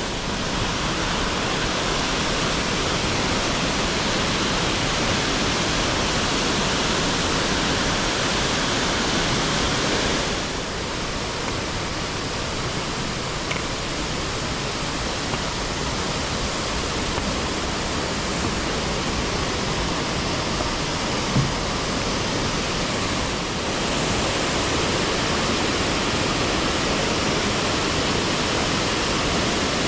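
Steady rush of flowing water, a little softer through the middle stretch, with a single short knock about two-thirds in.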